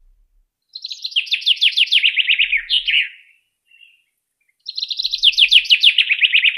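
Birdsong: two song phrases with a short pause between them, each a fast run of notes falling in pitch and ending in a brief flourish.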